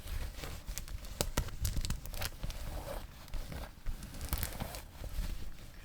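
Close-miked hands handling clothing and its packaging for ASMR, with frequent sharp crackles and taps.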